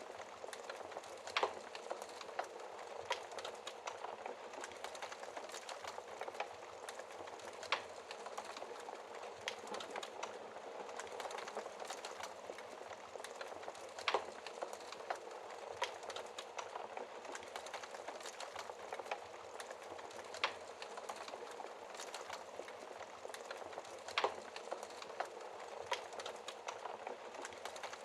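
Wood fire burning in a fireplace: a steady dense crackle with small ticks throughout and a louder pop every few seconds.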